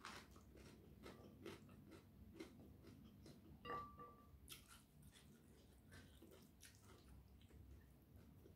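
Faint chewing and soft wet mouth clicks of a person eating by hand. About four seconds in there is a brief, faint high squeak.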